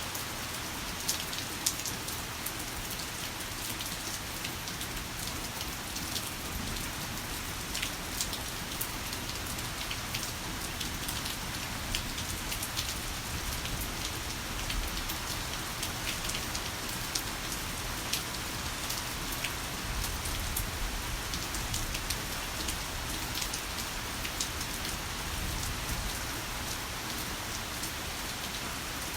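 Heavy rain falling steadily, a dense even hiss with many sharp individual drop hits ticking through it.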